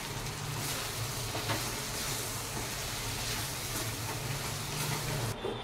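Thick okra masala curry sizzling in a kadai as a spatula stirs it, with a few faint scrapes of the spatula against the pan, over a steady hiss and low hum. The hiss cuts off just before the end.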